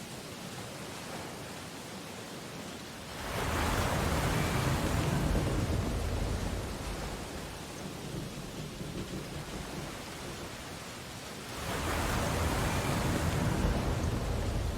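Sea waves breaking on a beach: two surges of surf, one about three seconds in and another near the end, each swelling and then washing back down.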